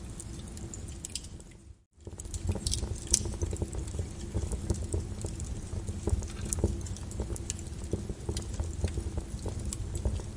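Lava crackling and popping in quick irregular snaps over a low steady rumble. About two seconds in, the sound dips almost to silence for a moment, then resumes.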